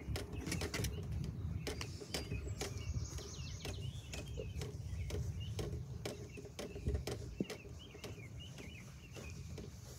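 Songbirds chirping and singing in short repeated phrases, over a steady low rumble and scattered sharp clicks.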